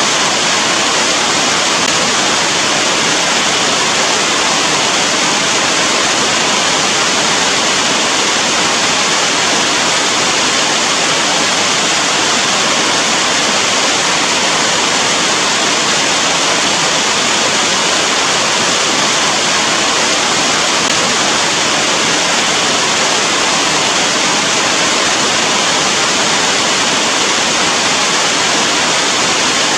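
Steady heavy rain, a loud, even hiss with no single drops or breaks standing out.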